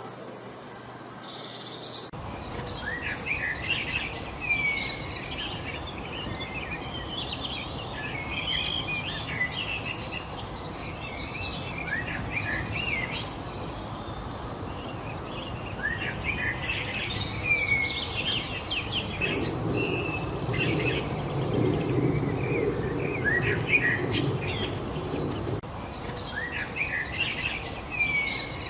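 Many songbirds singing and calling at once, dense overlapping chirps and trills over a steady background hiss. The chorus comes in about two seconds in, and a low rumble joins it for several seconds in the second half.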